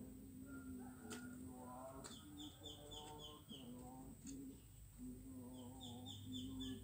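Birds calling: two quick runs of short, high chirps, about six a second, one near the middle and one near the end, over a low steady tone.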